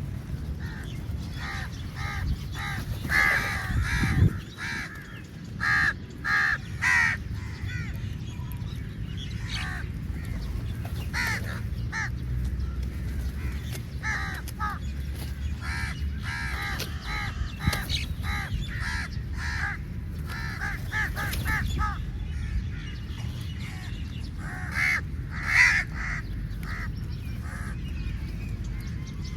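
Crows cawing over and over, short harsh calls coming in quick runs, with a steady low rumble underneath.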